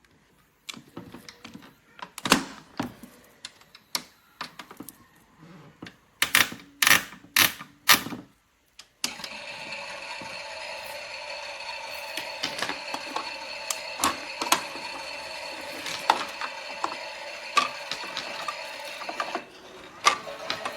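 Toy washing machine (Theo Klein Miele replica): a series of sharp plastic clicks and knocks, then about nine seconds in its battery drum mechanism starts with a steady geared whirring, dropping in level near the end.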